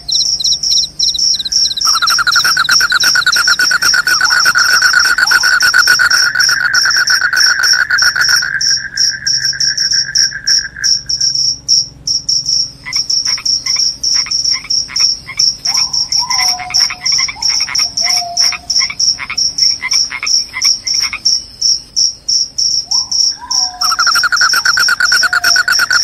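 Crickets chirping loudly: a high, unbroken trill runs throughout, joined for long stretches by a lower trill and, in the middle, by rapid pulsed chirps. A few short falling calls come in briefly.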